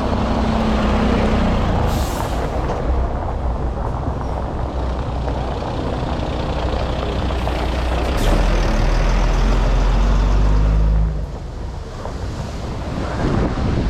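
Heavy diesel truck engines running, with a short hiss about two seconds in and another near eight seconds. A deep rumble swells near eight seconds and drops away about eleven seconds in.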